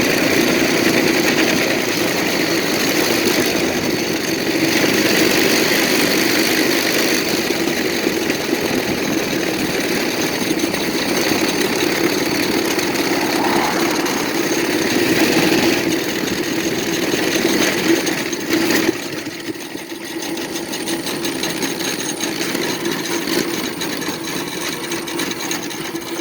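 Minibike's small engine running while being ridden. About two-thirds of the way through, the sound changes abruptly and drops in level, and a lighter, quicker running or rattling carries on.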